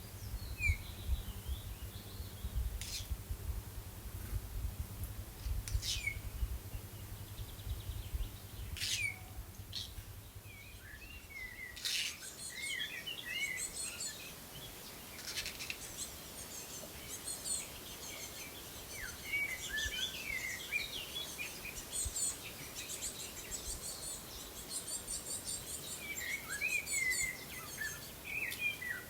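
Small songbirds chirping and trilling, with one call repeating every few seconds. A low steady hum stops about a third of the way through.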